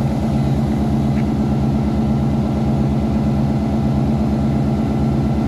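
An engine idling steadily, with a low, even throb of about seven pulses a second.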